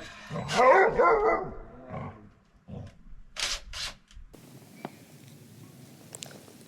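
A dog vocalizing loudly for about a second near the start, followed by a few short rustling noises before the sound drops to a quiet steady background.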